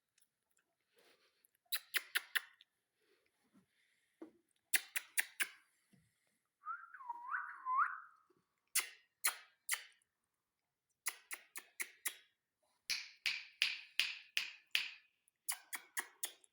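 Ringneck parrot making quick runs of sharp clicks, three to six at a time, with a short warbling whistle about seven seconds in and a denser run of chattering clicks near the end.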